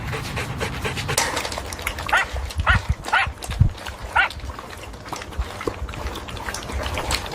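Beagles panting, with four short, high whimpers between about two and four and a half seconds in.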